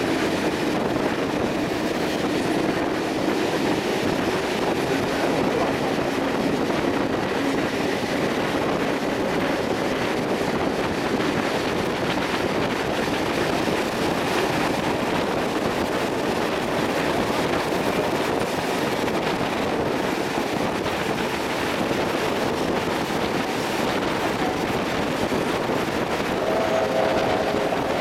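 Steady running noise of a steam-hauled heritage passenger carriage rolling over the rails at speed, heard through an open window with wind rushing past. A faint squeal joins near the end.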